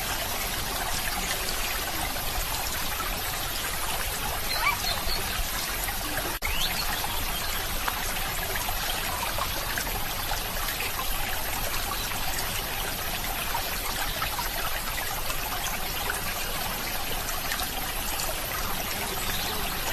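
Water trickling and flowing steadily, like a small stream, with a momentary dropout about six seconds in.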